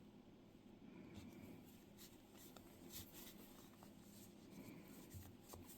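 Near silence with faint scratching and a few light clicks: yarn and a crochet hook being handled while tucking in yarn ends on a crocheted plushie.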